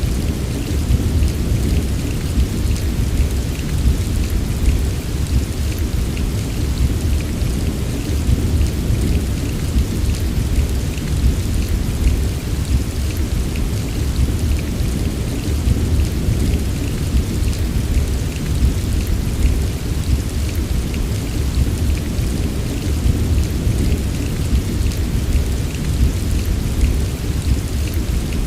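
Steady heavy rain pouring with a continuous deep low rumble beneath the patter of drops; no single thunderclap stands out.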